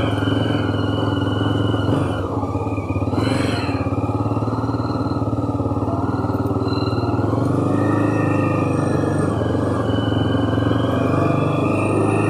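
Honda CB 300R single-cylinder motorcycle engine running under way. It dips briefly about two seconds in, then holds steady again.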